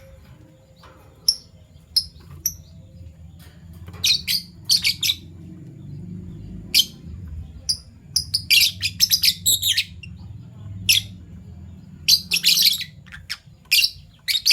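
Fischer's lovebirds chirping: a few sharp single chirps at first, then quick bursts of rapid, high chirps from about four seconds in. A low steady hum runs underneath.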